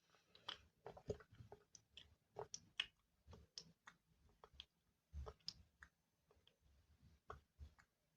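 Soft, irregular clicks and taps, a few every second, as close-up ASMR trigger sounds.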